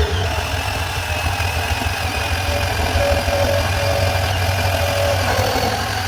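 Milwaukee 12 V cordless bandsaw (2429-20) running steadily as its blade cuts through schedule 40 pipe, a low motor hum under a steady blade whine.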